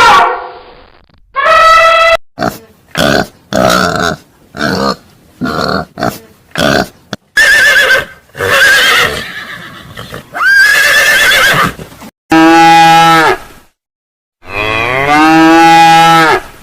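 Animal calls: a quick series of short calls, then longer ones, ending with two long, steady-pitched calls rich in overtones.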